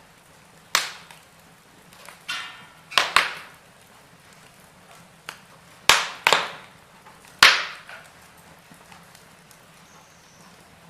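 Wood fire in a fireplace crackling: several sharp, irregular pops and snaps of burning logs over a faint steady hiss.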